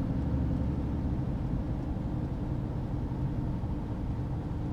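Heavy truck's diesel engine running steadily, a low even hum.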